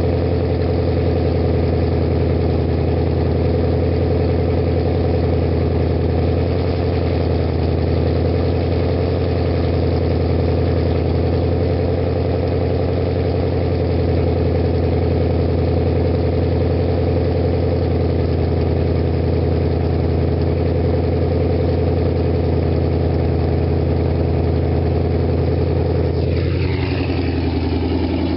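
2017 Ford Mustang GT's 5.0-litre V8 idling steadily through BBK headers, a 3-inch off-road connection pipe with no catalytic converters and an MBRP Street cat-back exhaust. Near the end there is a falling sweep in pitch.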